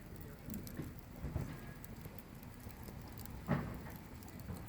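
Wood campfire crackling with scattered small sharp pops and one louder crack about three and a half seconds in, the fire burning with fairly weak flames.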